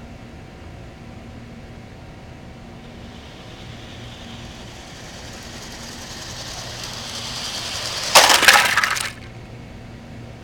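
Model freight train running along the track, its hiss growing steadily louder as it closes in, then a loud smash with breaking glass about eight seconds in as it hits the stationary boxcar, lasting about a second and cutting off suddenly.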